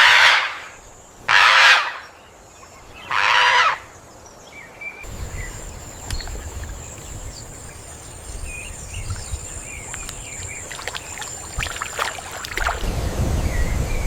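Three loud, rasping animal calls, each about half a second long and roughly a second and a half apart. About five seconds in, the ambience changes to a steady high insect whine with scattered short bird chirps. Some rustling follows, and a low wind rumble comes in near the end.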